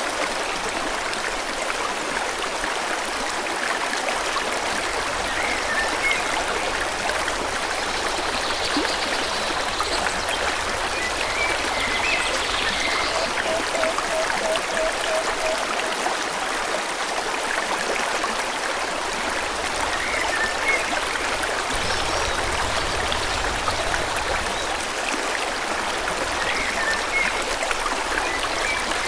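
Forest stream flowing steadily, with small birds chirping now and then and a short rapid run of lower notes about halfway through.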